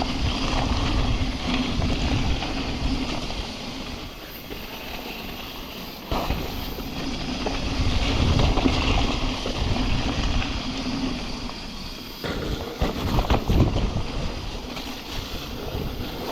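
Mountain bike riding down a rough, wet trail: wind buffeting an action-camera microphone over the rolling of tyres, with many short knocks and rattles from the bike over bumps. The sound changes abruptly twice, about six and twelve seconds in.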